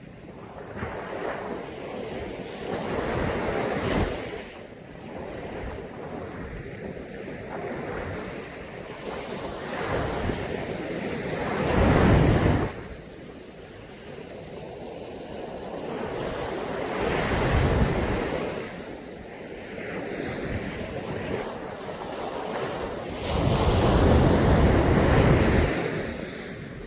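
Caribbean sea waves breaking on a beach: four swells of surf that rise and fall back, the loudest about twelve seconds in and near the end.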